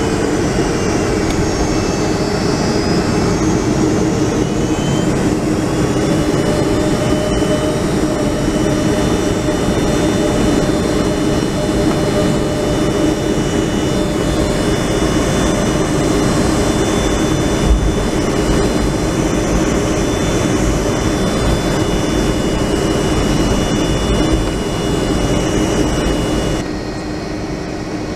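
Rolls-Royce RB211 jet engines of a Boeing 757-200 heard from inside the passenger cabin: a loud, steady rumble and rush with whining tones over it. About a second before the end, the high whine and part of the loudness drop away suddenly.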